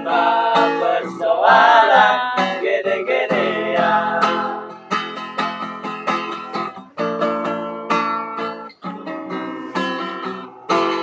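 Acoustic guitar strumming and plucking chords in a song's instrumental ending, with a wavering held sung note over it in the first few seconds.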